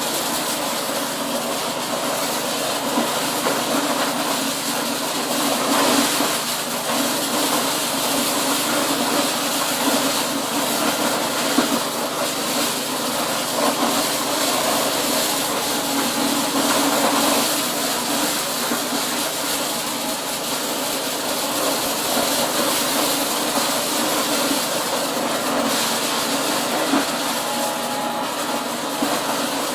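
Corn-processing machine, most likely a corn sheller, running steadily and producing a dense, even mechanical noise that stays at the same level throughout.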